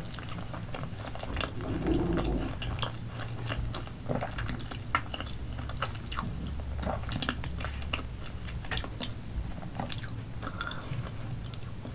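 Close-up chewing of a big mouthful of potato coated in spicy sauce, taken in one bite: many short mouth clicks at an irregular pace, a little louder about two seconds in.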